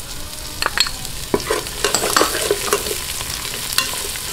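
Garlic, chopped red onion and spring onion sizzling as they sauté in a pot, with the sharp clicks and scrapes of a metal spoon tipping the onion in and a spatula stirring against the pot.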